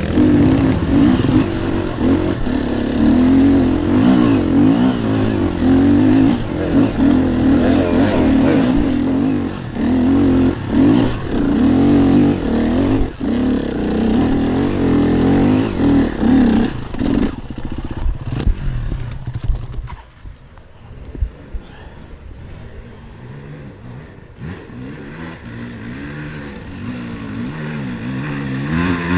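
Enduro dirt bike engine running under changing throttle, its pitch rising and falling as it revs. About twenty seconds in it drops to a much quieter, low running, then slowly builds again near the end.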